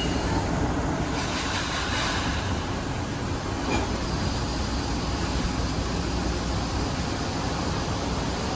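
Long Island Rail Road M3 electric multiple-unit train moving through the station, a steady rumble with a brief swell about one to two seconds in.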